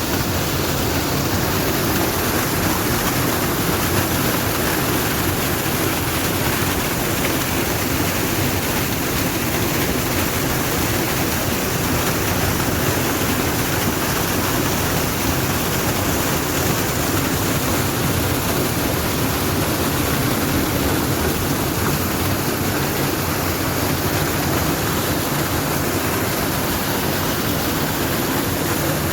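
Steady rushing of flowing water, an unbroken loud roar.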